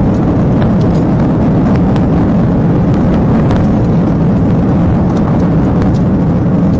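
Loud, steady rumble of a moving vehicle, with a few faint clicks scattered through it.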